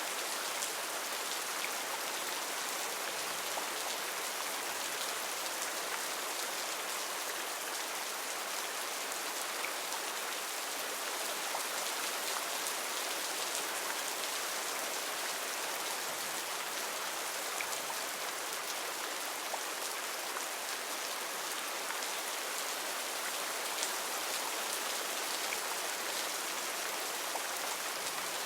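Heavy rain falling steadily in a rainforest, a dense even hiss of drops with occasional sharper drop strikes.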